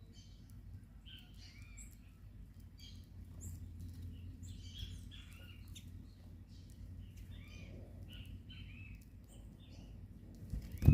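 Several small birds chirping and calling over one another at a feeder, among them tico-tico (rufous-collared sparrows), with short high chirps throughout over a steady low rumble of background noise. A single loud thump comes right at the end.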